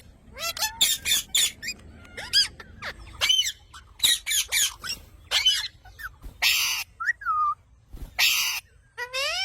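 Parrot calling in a rapid series of short squawks and chirps that sweep up and down in pitch, with two longer harsh screeches, one about two-thirds of the way in and one near the end.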